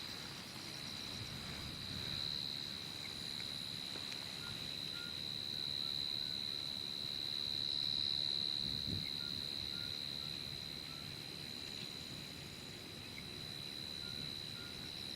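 Steady high-pitched insect chorus, swelling and easing, with scattered faint short chirps. A low rumble comes about nine seconds in.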